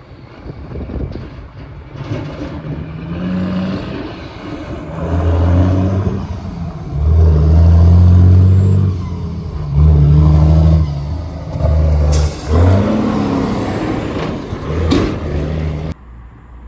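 Heavy truck engine revving, held at several steady speeds that step up and down, with a couple of short hissing bursts; the sound cuts off abruptly near the end.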